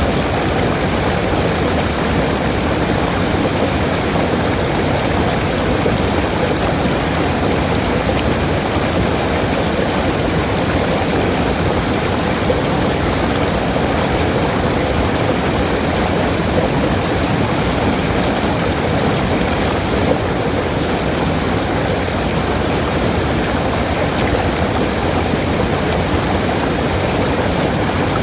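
Waterfall: a steady, loud rush of falling water that never changes.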